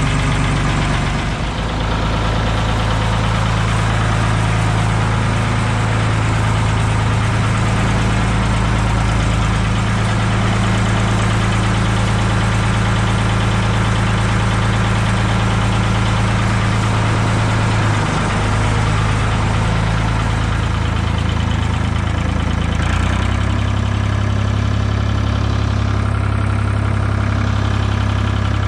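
Ford 2000 tractor's three-cylinder diesel engine running at a steady idle shortly after a cold start, its speed shifting in steps a few times.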